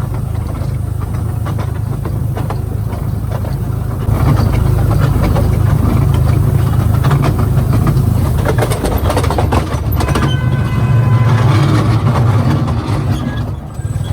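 Small Wulai mountain tourist train running on its track: a steady low rumble with the clickety-clack of wheels over the rails, getting louder about four seconds in.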